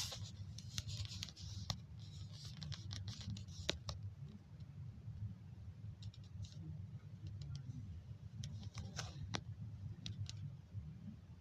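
Typing on a computer keyboard with mouse clicks: quick keystrokes in the first few seconds, then scattered clicks, over a steady low hum.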